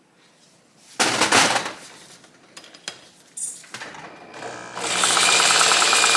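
Stripped 1971 Honda SL125 engine being turned over by hand to test its gearbox: a short mechanical rattle about a second in, then near the end a steady run of rapid ratcheting clicks.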